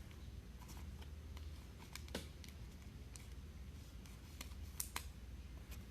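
Faint scattered clicks and light handling noise from trading cards being sorted by hand, over a steady low hum.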